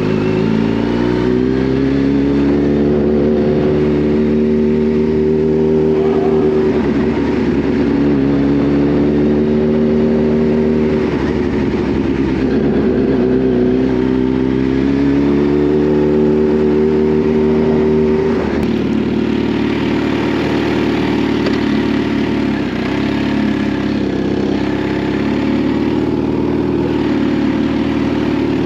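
Kawasaki Z H2's supercharged inline-four engine running on the move. Its pitch climbs over the first few seconds and then holds with gentle rises and dips. About two-thirds of the way through, the engine note drops and becomes more uneven.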